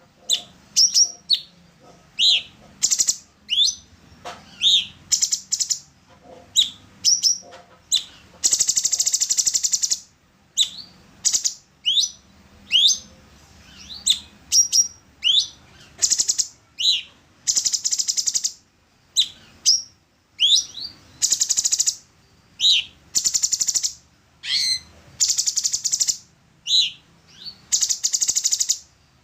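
Orange-bellied leafbird singing. Quick sweeping whistled notes alternate with harsh, buzzy chattering phrases, some lasting over a second, in a continuous run of song.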